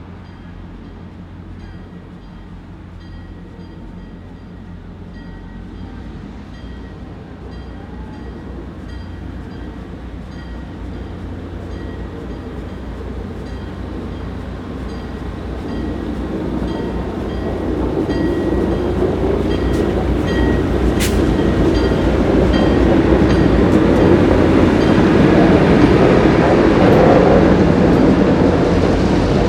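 Train approaching and drawing steadily louder. A deep engine rumble runs underneath, and wheel and rail noise builds up over the second half.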